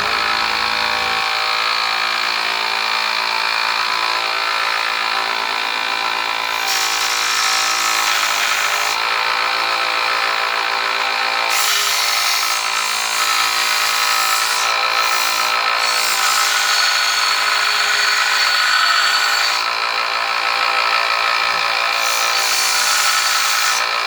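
Angle grinder running at a steady whine while grinding the bevels into a forged steel knife blank. A harsher hiss of the disc cutting the steel comes and goes several times, from about seven seconds in.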